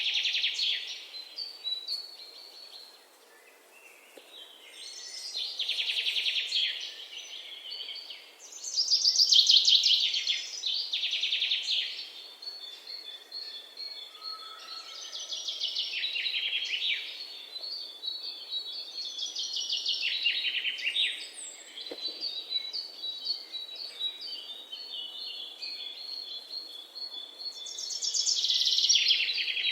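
Songbirds singing: fast, trilled song phrases about two seconds long that come every few seconds, with a steady series of high, repeated notes between them.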